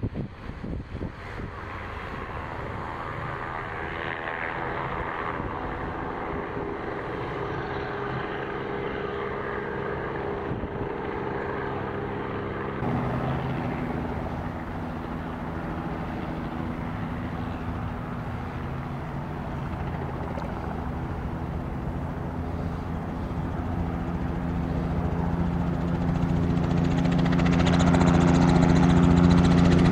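Helicopter engine and rotor running steadily, the sound changing abruptly about a third of the way in, then growing louder over the last several seconds.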